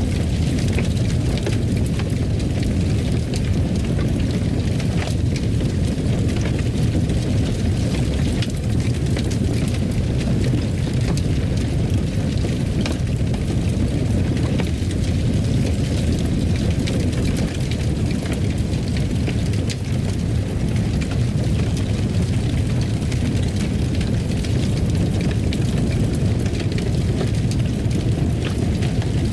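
Wood fire crackling in a fireplace: a steady low roar with frequent small sharp pops and crackles scattered throughout.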